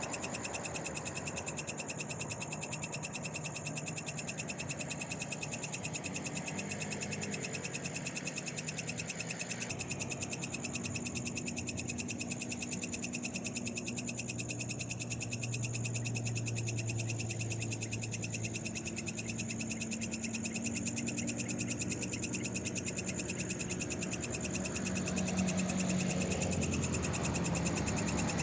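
Night chorus of frogs calling continuously, a dense rapid pulsing over a steady high-pitched buzz.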